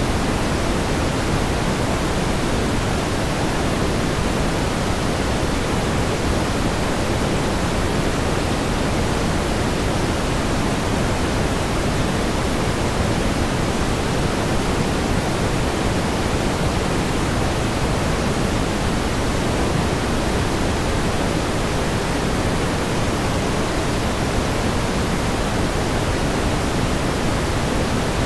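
Steady pink noise: an even hiss, heavier in the low end, with no change in level.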